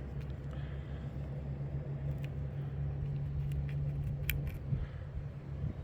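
Steady low machine hum, with a few faint sharp clicks about two seconds in and again about four seconds in.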